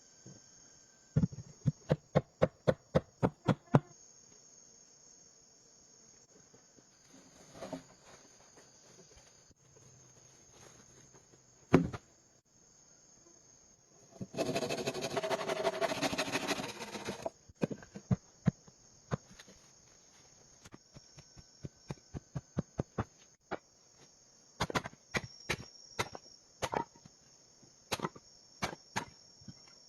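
Insects chirring steadily at a high pitch, over a quick run of about ten sharp strikes, roughly four a second, near the start. A harsh, dense scraping noise lasts about three seconds in the middle, and scattered single knocks and clicks come throughout.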